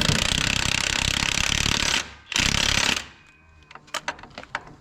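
Air impact wrench hammering in two bursts, one of about two seconds and a shorter one just after, while the brake studs are being fitted.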